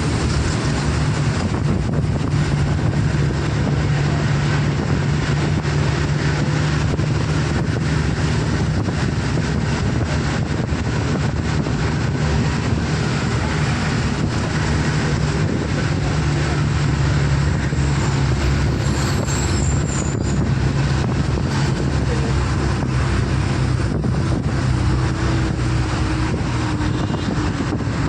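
Steady engine hum and road noise of a moving road vehicle, running evenly without a break.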